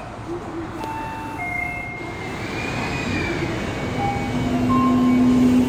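Kitakyu 9000 series electric train braking to a stop at the platform: its motor whine moves through a series of steady tones that step to new pitches. A steady low hum sets in about four seconds in, as the train comes to rest.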